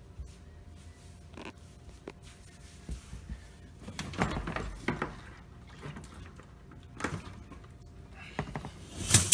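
Hard plastic dishwasher parts being handled and knocked together: scattered clicks and light rattles, a busier cluster about four seconds in and sharper clicks near the end.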